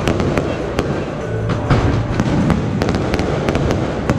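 Aerial fireworks shells bursting in quick succession: a dense run of sharp bangs and crackles, several a second, over a steady low rumble.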